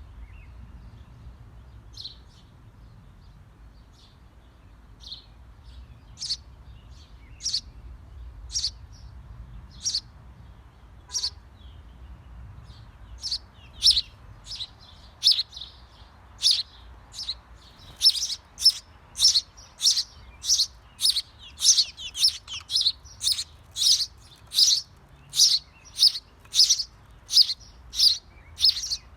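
Small bird chirping over and over in short, high chirps. They come a few seconds apart at first and quicken to a steady run of about two a second in the second half.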